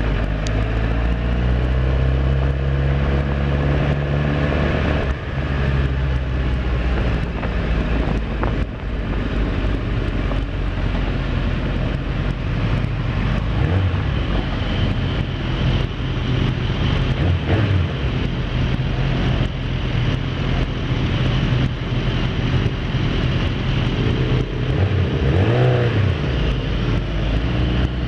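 Kawasaki ZX10R sportbike's inline-four engine running steadily, with a few brief rises and falls in pitch near the start and near the end.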